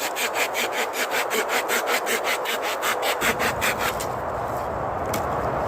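Saw cutting through wood in quick, even strokes, about five a second, stopping about four seconds in. A steady low rushing noise and a single click follow.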